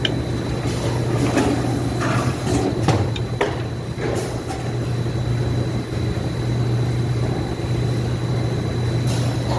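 Factory machine running with a steady low hum and a thin, steady high whine, with short, irregular clanks or hisses for the first four seconds or so and once more near the end.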